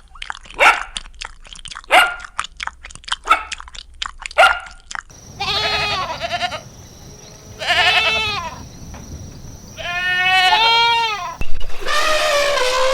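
A dog barking in a quick string of sharp barks. From about five seconds in, a goat or sheep takes over with four long, quavering bleats.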